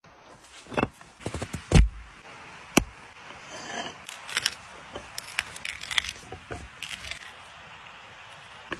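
Irregular clicks, knocks and scrapes of food being handled and cut, with heavier thumps about two and three seconds in.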